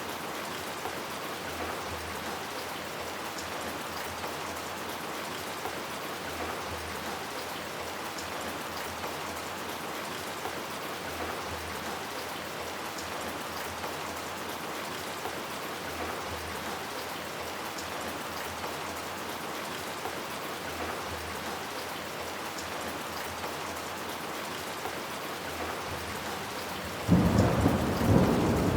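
Steady rain falling, an even hiss. Near the end a sudden loud clap of thunder breaks in and rumbles on.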